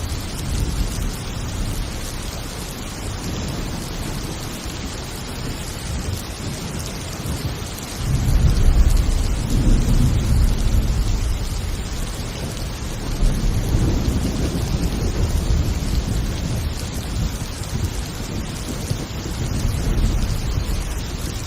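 Steady heavy rain with rolling thunder: a deep rumble swells suddenly about eight seconds in and rolls on for several seconds, with another swell of rumble a few seconds later.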